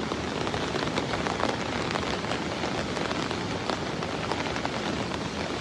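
Heavy rain falling steadily, with many separate drops hitting surfaces.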